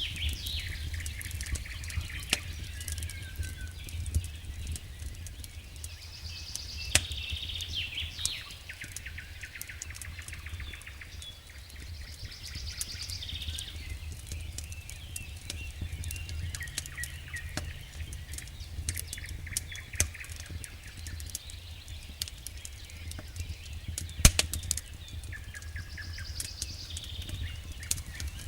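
Wood fire burning in a fireplace, crackling and popping in irregular sharp snaps over a steady low rumble, with one loud pop near the end.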